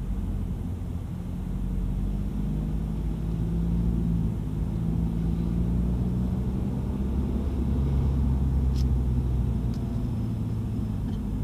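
Mini John Cooper Works GP's turbocharged four-cylinder engine running just above idle, around 1200–1400 rpm, as the car creeps along at walking pace, heard from inside the cabin. The low engine note stays steady, with small shifts in pitch.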